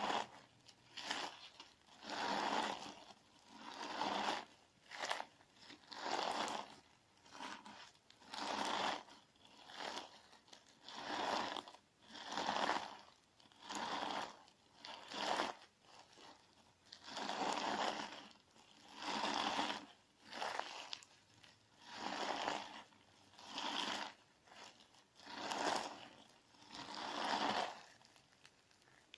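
Clear slime mixed with gritty crunch sand being squeezed and worked, giving crunchy, crackly squishes in slow repeated swells, one about every one and a half to two seconds.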